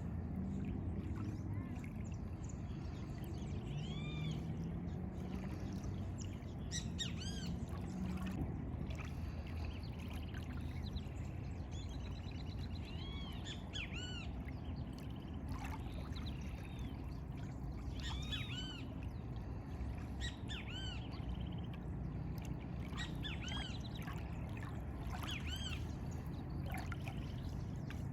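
Several small birds chirping and singing in short, arched, high calls that come every second or so, over a steady low rumble of outdoor background noise.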